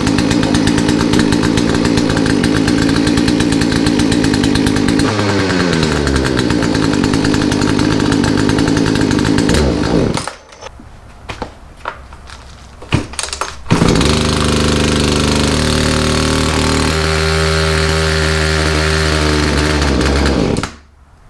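Poulan two-stroke chainsaw engine running, its speed sagging about five seconds in before it dies at about ten seconds; after a few short bursts it restarts and runs steadily, then cuts out suddenly near the end. It is running poorly after a carburetor rebuild, which the owner puts down to a carburetor adjustment set too low.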